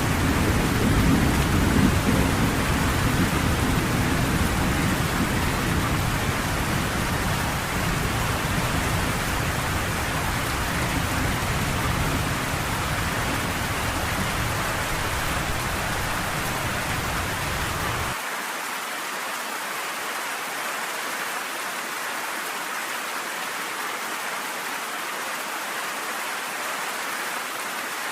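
Steady rain with a low rolling rumble of thunder beneath it, strongest in the first couple of seconds. About two-thirds of the way through the rumble cuts off suddenly, leaving only the hiss of the rain.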